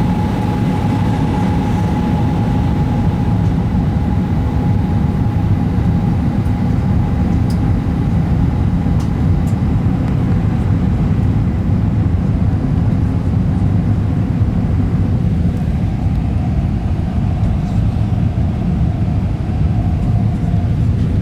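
Steady cabin noise of an Airbus A320 airliner on approach: a low rumble of engines and airflow, with a thin whine that drifts slightly lower in pitch.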